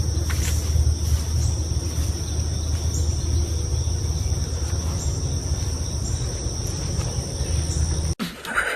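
A steady machine hum with a deep low drone and a thin, constant high whine, cutting off suddenly near the end.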